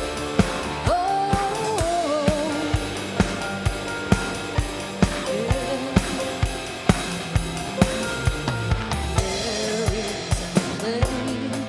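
Worship band playing an instrumental stretch between sung lines. A drum kit keeps a steady beat of about two kick strokes a second with snare and cymbals, under a melody line.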